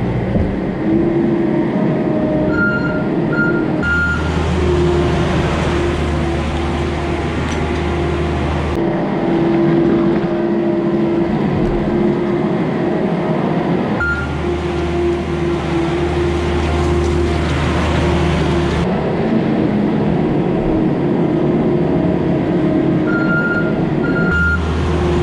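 Skid loader engine running as the machine works back and forth scraping manure, its low rumble swelling and easing in long stretches. Short high backup-alarm beeps sound in small groups about three seconds in, around the middle and near the end.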